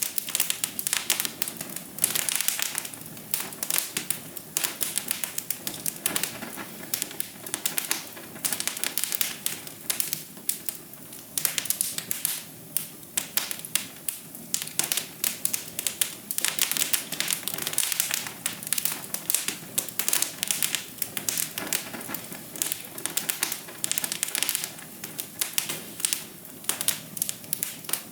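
Wood fire crackling: dense, irregular pops and snaps over a soft steady hiss.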